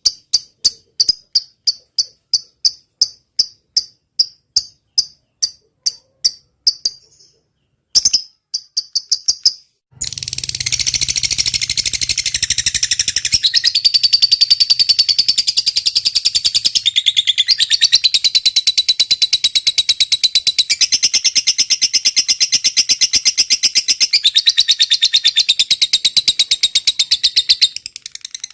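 A regular series of short, high chirps, about three a second, from a chirping insect for the first seven seconds, then after a short break a long, continuous, fast high-pitched trill typical of a lovebird's extended chatter (ngekek), used as training song for songbirds.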